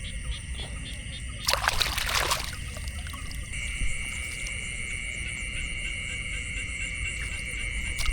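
Steady high-pitched insect chirring throughout, with a brief splash of water about a second and a half in.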